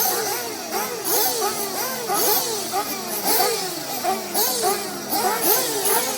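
Several 1/8-scale nitro off-road buggies' small two-stroke glow engines revving, their high buzzing pitch rising and falling in quick overlapping sweeps as they throttle up and brake.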